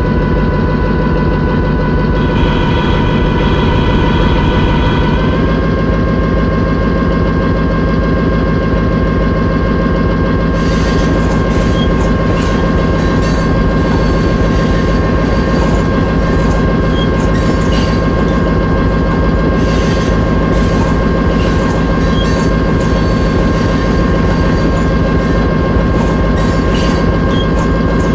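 Railway locomotive running loudly and steadily with a held whine, its pitch stepping up slightly about five seconds in. From about ten seconds in, irregular clicks and rattles join it.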